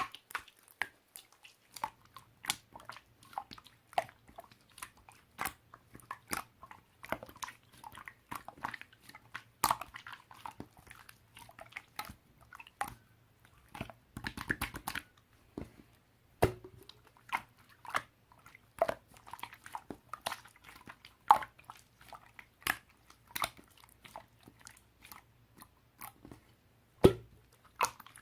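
Crunchy food being bitten and chewed: an irregular run of sharp crunches, several a second.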